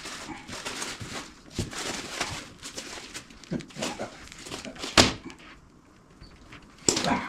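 Hand work with tools and materials: scattered clicks and rustles, with a sharp knock about five seconds in and another near the end.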